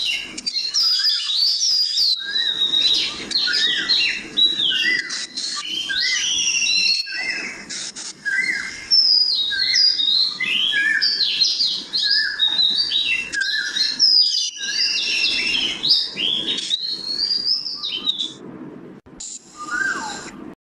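Songbirds chirping and twittering, many quick calls overlapping and sliding up and down in pitch. The sound thins out and drops away near the end.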